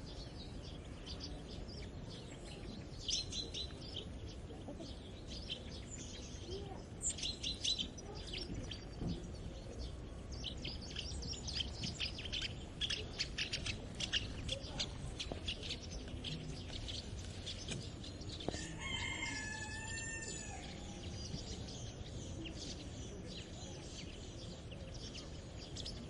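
Small songbirds chirping in quick, high bursts, busiest in the first half. About nineteen seconds in, a rooster crows once, a single call of about two seconds, over a steady low background rumble.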